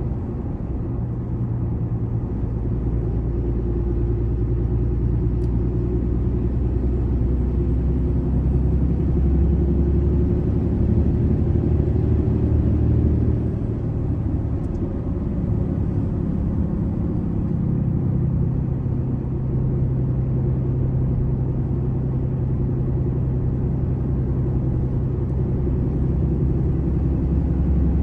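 Cummins inline-six turbo diesel in a Ram 3500 pickup holding back the truck on a steep downhill grade with the exhaust brake fully engaged: a steady low drone whose pitch shifts about halfway through.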